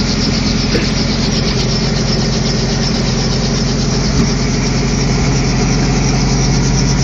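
Helicopter engine and rotor running steadily and loudly, with an even drone and a fast rhythmic chop.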